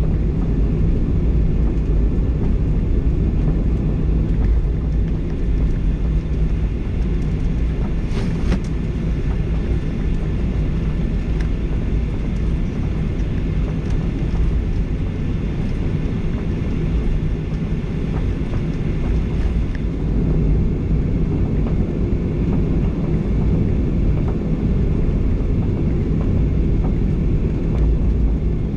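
Steady low cabin noise of a Boeing 737-800 heard from a rear window seat, with the CFM56 engines running, and a faint click about eight seconds in.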